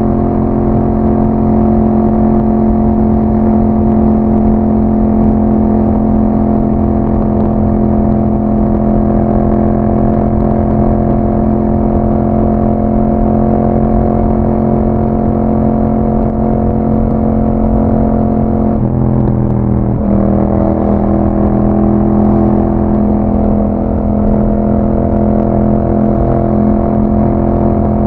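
2021 Yamaha MT-07's parallel-twin engine through an aftermarket Akrapovic exhaust, running at steady revs while riding. About two-thirds of the way in the revs dip briefly, then hold steady again.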